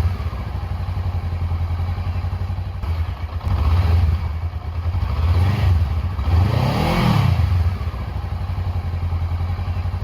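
Honda CMX500 Rebel's parallel-twin engine idling through an Arrow Rebel slip-on exhaust, blipped a few times in the middle so the revs rise and fall, then settling back to a steady idle.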